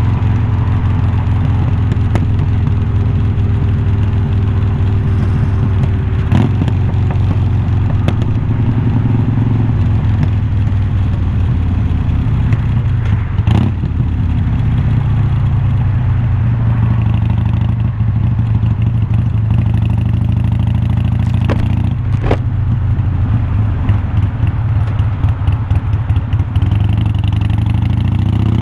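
Harley-Davidson Iron 1200's V-twin running through glass-pack-style slip-on mufflers while riding, its exhaust note easing down in pitch over the first few seconds, holding steady, then rising near the end as the bike accelerates. A few sharp knocks cut through the exhaust note.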